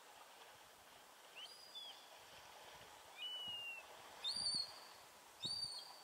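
A bird calling in short, clear whistled notes. Each note starts with a quick upward sweep and then holds or falls slightly, with some notes higher in pitch than others. The loudest two come a little past four seconds and about five and a half seconds in, over a faint steady hiss.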